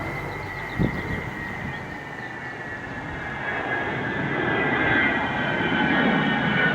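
Avro Vulcan bomber's four Rolls-Royce Olympus jet engines on approach: a high whine over a steady rumble, drifting slightly down in pitch and growing louder over the last few seconds. A short knock about a second in.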